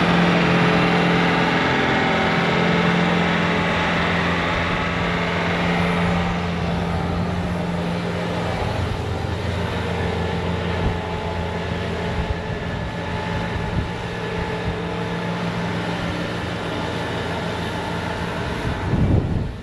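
Bobcat T66 track loader's diesel engine running steadily while it drives its snowblower attachment; the sound drops a little after about six seconds. Wind buffets the microphone near the end.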